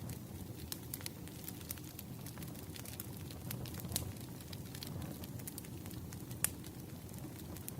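Firewood burning: a steady low rumble of flames with irregular crackles and sharp pops from the wood, two louder pops about 4 and 6.5 seconds in.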